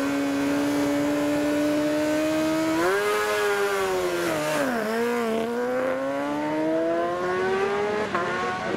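Racing superbike engine at high revs. It holds a steady pitch, rises briefly about three seconds in, then drops sharply as it slows. It then climbs steadily again, with a quick gear change near the end.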